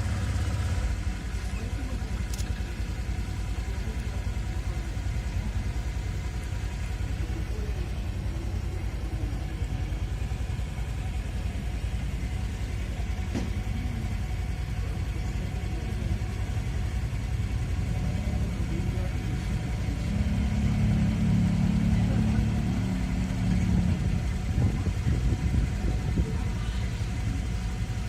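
Low, steady rumble of a vehicle engine running nearby, growing louder about twenty seconds in.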